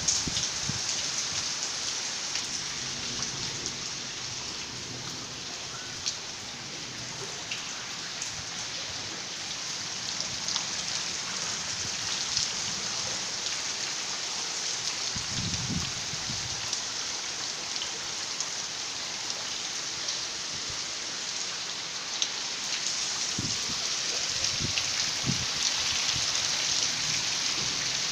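Steady rain falling, a constant dense hiss with scattered drop ticks. A few brief, faint low rumbles come about halfway through and again near the end.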